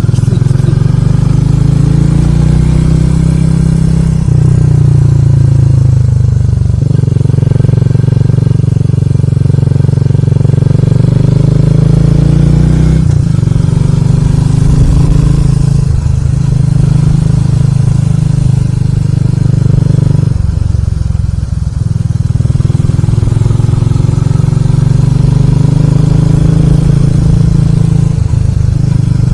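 Motorcycle engine running under way with wind rush, heard from the bike. The engine pitch rises repeatedly under acceleration and drops back several times as the throttle changes.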